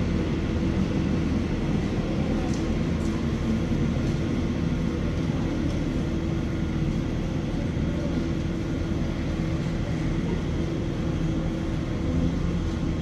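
A train's steady, low mechanical hum.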